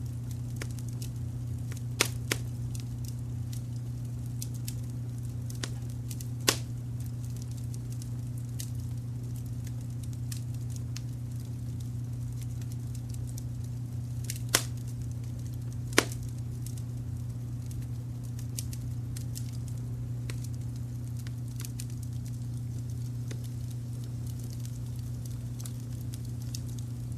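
Wood fire crackling: a scatter of small ticks with five sharper pops, two of them about two seconds in and the loudest near the middle. Underneath runs a steady, smooth low brown-noise hum.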